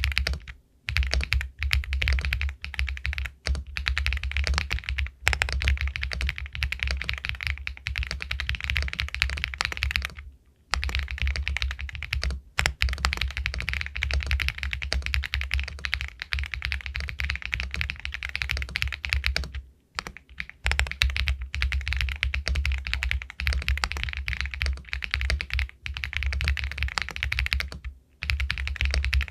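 Continuous fast typing on an Epomaker Galaxy 80 Pro full-aluminium mechanical keyboard with White Jade linear switches, a dense run of key strokes broken by brief pauses about ten and twenty seconds in.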